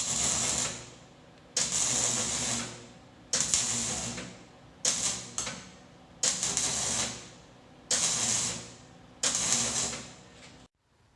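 Pneumatic air tool run in seven short bursts of about a second each, every second and a half or so, driving fasteners home as an exhaust is reinstalled; it stops suddenly near the end.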